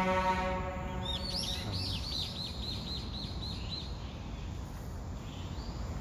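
A bird chirping: a quick run of short, high chirps, about four a second, from about a second in until about four seconds in. Under the start is a steady droning tone that fades out within the first second.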